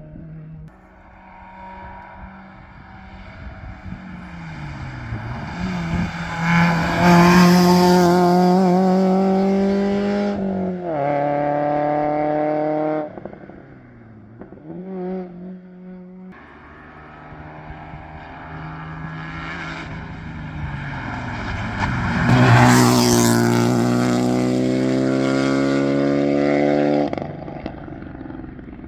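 Modern rally cars at full throttle on a special stage, two passes. The first engine climbs in pitch as it approaches, is loudest through the middle of the pass, and drops in pitch at a gear change about eleven seconds in. After an abrupt cut, a second car comes in and climbs through the revs, is loudest from about twenty-two seconds, and stops abruptly near the end.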